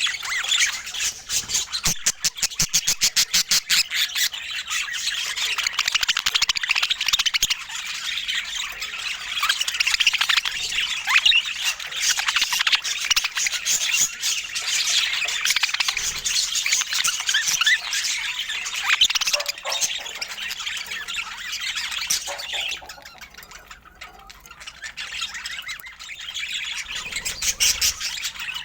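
Budgerigars chattering: a continuous stream of warbles, chirps and squawks. It includes a rapid clicking run early on and eases off briefly a little past two-thirds through.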